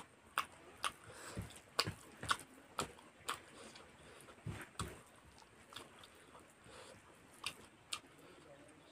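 Close-up eating sounds: chewing and wet mouth clicks and smacks while eating rice and chicken curry by hand. The clicks come irregularly, most thickly in the first three seconds.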